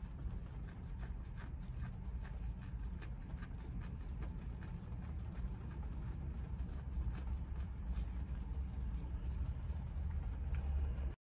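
Steady low rumble of a car driving, heard from inside the cabin, with scattered light ticks of raindrops hitting the car. It cuts off suddenly near the end.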